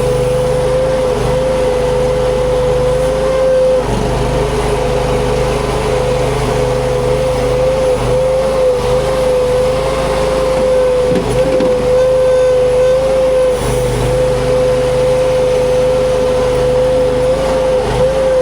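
Huayee LHY480 mini skid steer running steadily under work, a constant high whine over a low engine drone, with a few brief dips in the sound.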